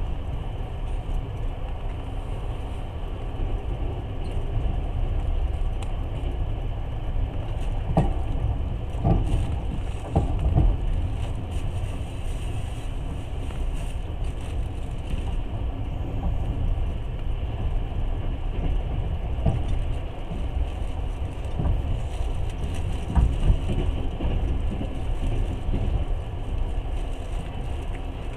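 Long-distance passenger train running at speed: a steady low rumble of wheels on rails, with a few sharp knocks about eight to eleven seconds in and once more a little after twenty-three seconds.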